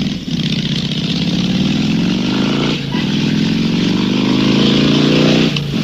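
Motorcycle engine accelerating hard, its pitch rising through one gear, dropping at a shift about three seconds in, then rising again through the next gear.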